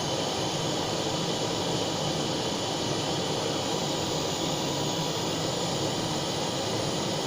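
Butane blowtorch flame running with a steady rushing hiss while it heats a crucible of molten solder.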